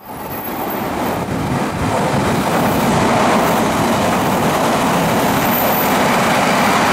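Odakyu Line electric commuter train running past at speed, a steady rush of wheel-on-rail noise. The noise builds over the first two seconds, then holds level.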